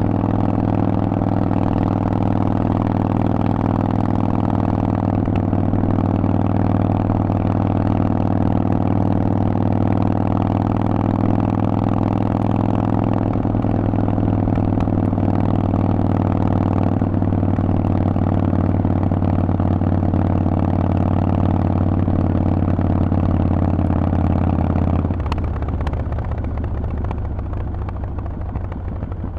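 Harley-Davidson Forty-Eight's air-cooled V-twin running through a Vance & Hines exhaust, holding a steady engine speed with a deep, even note. About 25 seconds in, the note drops away to a quieter, rougher rumble, as when the throttle is closed.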